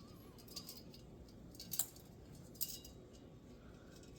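A few sharp light clicks, the three clearest spaced about a second apart, from a pet bird pecking and nibbling at a person's head, with a faint squeak near the start.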